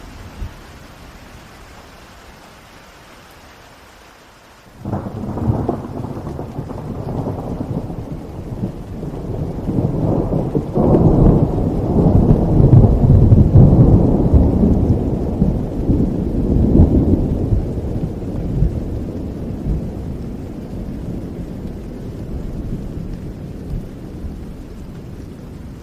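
Steady rain, then about five seconds in a long rolling peal of thunder breaks in suddenly, swells over the next ten seconds and slowly rumbles away.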